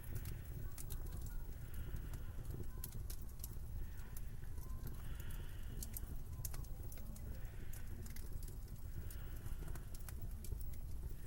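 Slow footsteps crunching through snow, one step about every second or two, with small crisp crackles over a steady low wind rumble.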